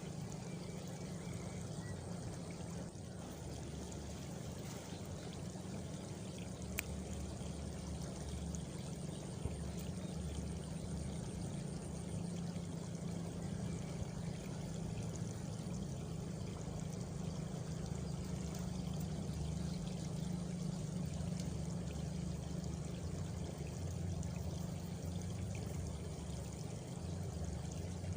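Steady rushing of running water. A faint high cricket trill joins about a third of the way in and fades after a few seconds.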